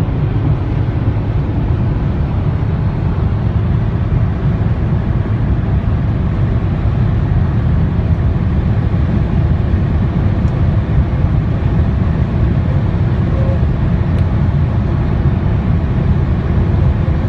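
Mercedes C 250 d estate (S205) at high speed: a steady, loud low rumble of road and wind noise, with a faint whine that shows briefly a couple of times in the second half.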